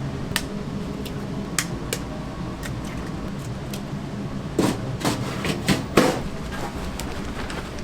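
Kitchen work: scattered knocks and clicks of utensils and cookware, with a cluster of louder knocks a little past halfway, over a steady low hum of kitchen machinery or ventilation.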